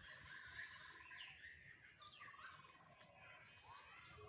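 Faint birdsong from several birds: a trill of rapid repeated notes heard twice, with short falling chirps and a high whistle between them, over a low rumble.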